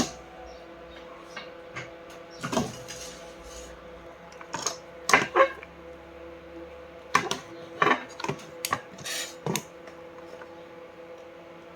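Irregular clicks, taps and knocks of small parts and tools being handled, about ten in all with the loudest around five seconds in, over a faint steady hum.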